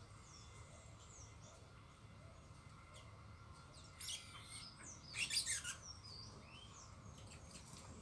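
Several small wild songbirds chirping, with short high notes throughout. A louder burst of rapid, harsh calls comes about four seconds in and again, loudest, between about five and six seconds in.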